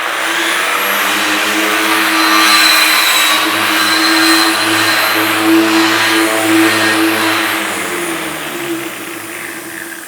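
A power tool fitted with a big buffing wheel runs at speed and scrubs light rust off a steel purlin, a steady motor tone under a wide abrasive hiss. Near the end the motor is let off and winds down, its pitch falling.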